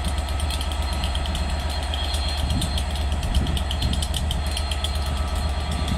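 Stationary railway locomotive standing with its machinery running: a steady low drone with a fast, even flutter over it.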